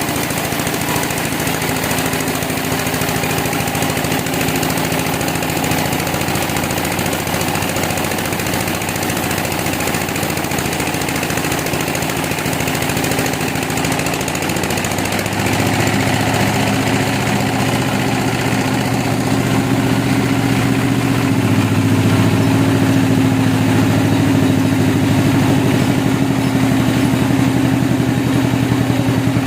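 An engine running steadily. About halfway through it grows louder, with a stronger, deeper hum.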